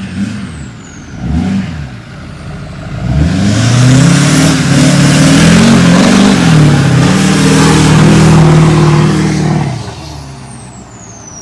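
Duramax 6.6-litre turbodiesel in a lifted pickup accelerating hard: the engine swells up about three seconds in, stays loud for several seconds with its pitch climbing and dipping, then falls off near the end.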